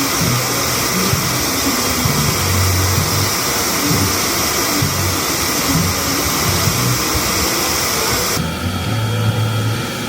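Automatic car wash heard from inside the car: a loud, steady rushing of water spray and air blowers against the car, which changes abruptly near the end as the hissing drops away.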